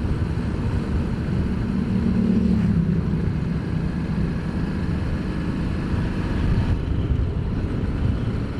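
Ducati Multistrada motorcycle under way, its engine running steadily, with a brief rise in engine note about two seconds in.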